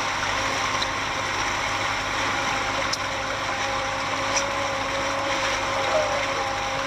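A motor running steadily: an even hum with a few constant tones under a broad hiss, unchanging throughout.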